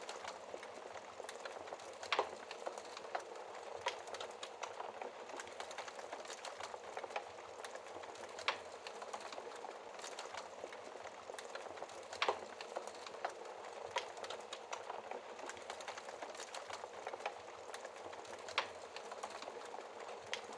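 Wood fire crackling in a fireplace: a steady soft hiss of burning with irregular sharp pops and snaps, a few louder pops standing out.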